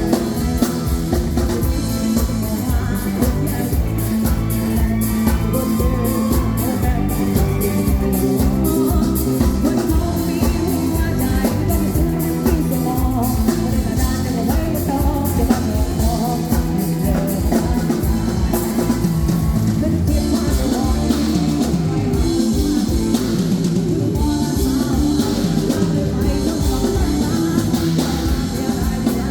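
Live rock band playing a Thai rock song, with a singer's vocals over drum kit and guitar, at a steady loud level.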